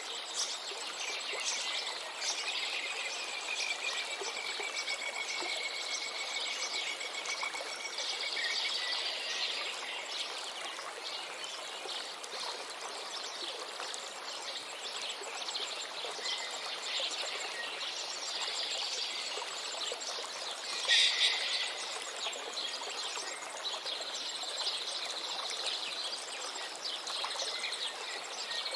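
River water flowing steadily under many small birds chirping and calling, with one louder flurry of calls about three quarters of the way through.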